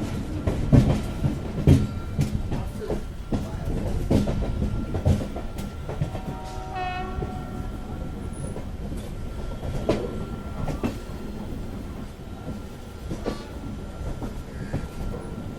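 A train running along the track, with irregular clanks and knocks of wheels over rail joints and a faint steady whine. A short horn blast sounds about seven seconds in.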